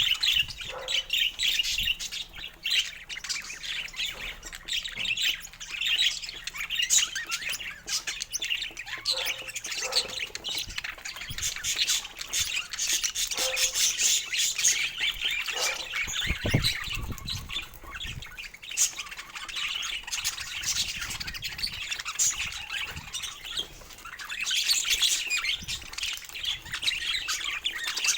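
Budgerigars chattering continuously, a dense run of rapid high chirps, warbles and squawks; a brief low thump sounds about sixteen seconds in.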